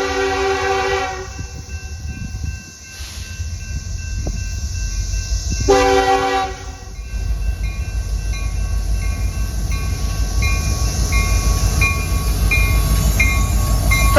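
Train horn sounding a multi-tone chord: a long blast that ends about a second in and a short blast a little before the middle. Under it the low rumble of the passing train grows steadily louder. In the second half a faint high ding repeats about every half second.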